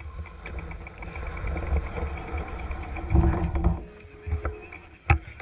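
Mountain bike riding downhill, heard from a camera mounted on the bike or rider: a low rumble of wind and trail, with a fast regular ticking for the first two seconds. A louder rush comes a little past halfway, and a single sharp knock near the end.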